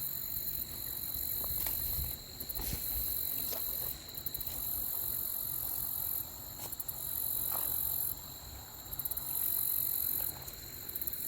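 Insects buzzing: a very high-pitched buzz that comes in bouts of about a second or more, switching on and off again and again, over a steady high whine.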